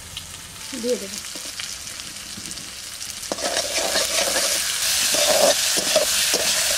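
Potatoes with green chillies and spices sizzling in hot oil in a metal kadai while a metal spatula stirs and scrapes the pan. It is quieter at first and grows louder and busier from about three seconds in.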